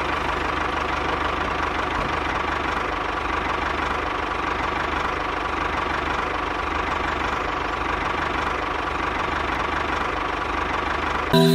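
Tractor engine running steadily with a fast, even knocking chug.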